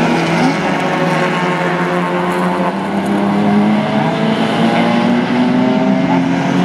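Race car engine running hard, its note holding steady, then stepping up in pitch about two and a half seconds in and climbing slowly as the car accelerates.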